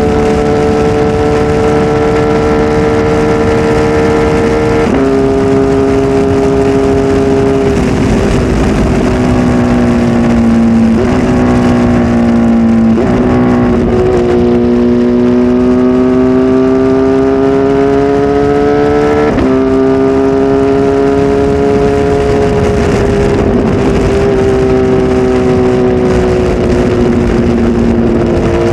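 Kawasaki Z H2 SE's supercharged inline-four, flash-tuned and breathing through a full aftermarket exhaust system, running loud under way. Its note drops abruptly about six times and climbs slowly in between.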